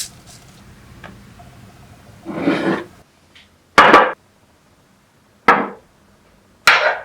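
Kitchenware handled at a table: a brief scrape, then three separate sharp knocks, like bowls and dishes being set down on a wooden table.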